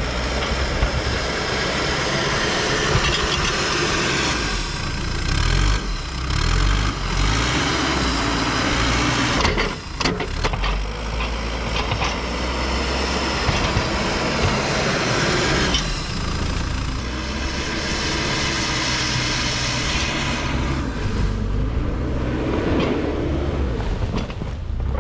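Heavy loader's diesel engine working hard while pushing into a snow pile: a steady drone with a high whine over it, dipping briefly about ten seconds in.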